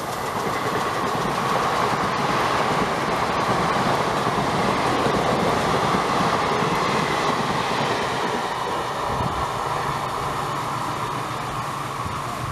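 Indian Railways express train's coaches passing close at speed, a steady loud rumble and rattle of wheels on the rails.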